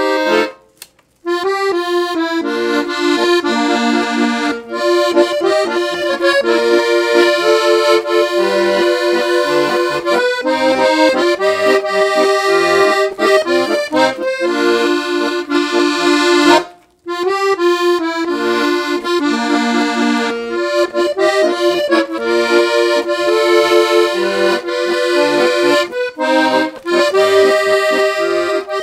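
Parrot Peacock piano accordion, with 3/4 LMM reeds, being played: a continuous tune of melody and chords, broken by two brief pauses, just after the start and about two-thirds of the way through.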